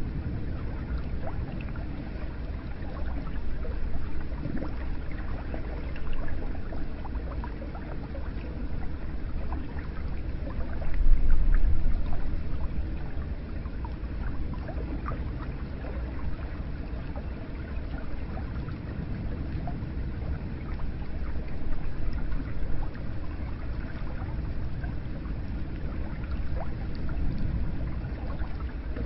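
Hot-spring water pouring and trickling into a bath: a steady splashing flow with scattered small drips, swelling louder about eleven seconds in.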